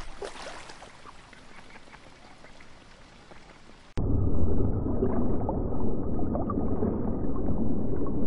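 Faint, quiet background with a few soft ticks, then about four seconds in a sudden cut to a steady, much louder bubbling and rushing of water, as in a reef aquarium.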